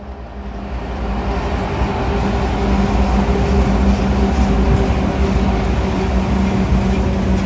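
Intermodal freight train passing at speed behind diesel locomotives: a steady engine hum with rumbling wheel noise that grows louder over the first two seconds, then holds.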